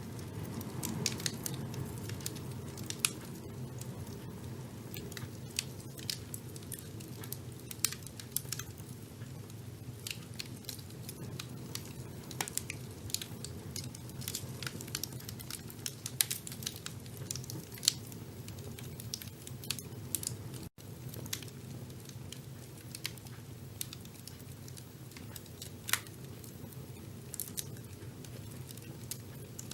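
Fire burning in a fireplace: a steady low rumble of flames with frequent sharp crackles and pops, a few of them louder than the rest.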